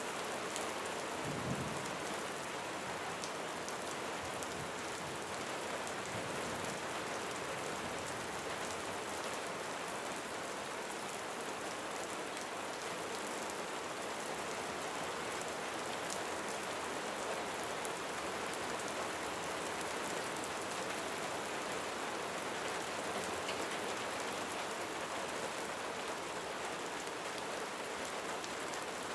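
Steady rain falling on a roof: an even hiss with scattered ticks of individual drops striking.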